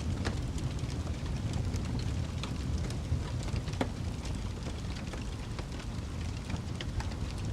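Wood fire crackling: a steady low rumble with many irregular small pops and snaps, a few of them sharper, around three and four seconds in.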